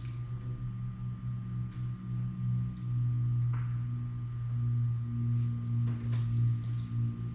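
A steady low hum, with a few faint clicks and rustles of handling.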